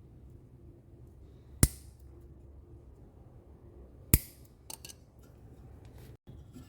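Two sharp snips of a hand cutting tool, about two and a half seconds apart, with a few lighter clicks just after the second, over a faint low hum.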